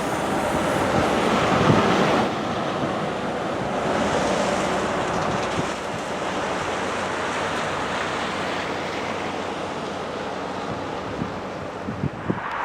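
Train passing close by: a steady rushing noise of wheels on rail and moving air, with a few short knocks near the end.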